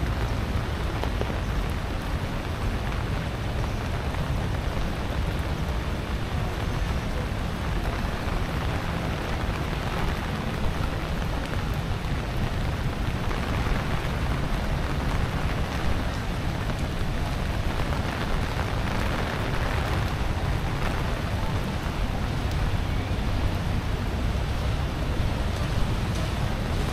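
Steady rain falling on wet stone paving, an even hiss with a constant low rumble underneath.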